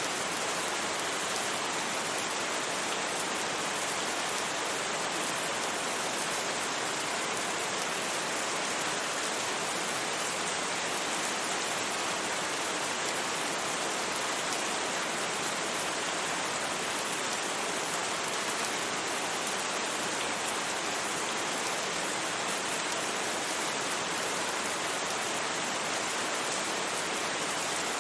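Steady rain falling on a surface, an even hiss without thunder or separate drips, unchanging throughout.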